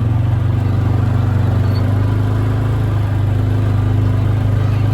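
Quad bike (ATV) engine running steadily under way, a low, even hum with a fast regular pulse.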